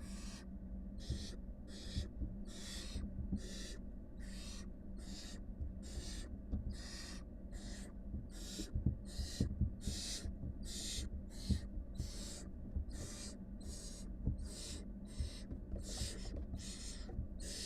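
Barn owl nestlings' begging calls: raspy hisses repeated about twice a second. Under them run a steady low hum and occasional soft thumps.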